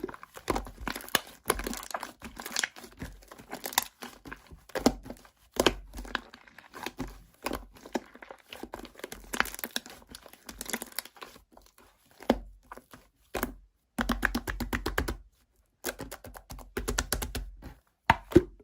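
Close-up crinkling and crackling with irregular clicks and light knocks, as of something being handled and crumpled, coming in clusters with short pauses.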